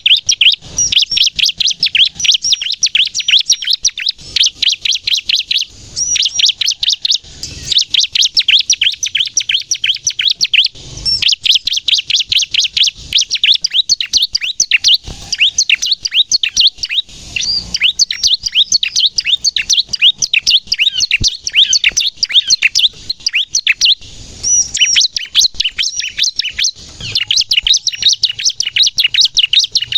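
Bar-winged prinia (ciblek) singing hard in the fast 'nembak' style: rapid runs of high, sharp chirping notes in bursts of a few seconds, with brief breaks between them.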